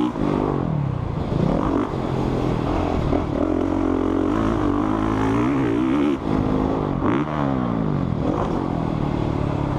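Motocross bike engine riding a dirt track, revved up and down again and again, its pitch climbing and falling every second or two.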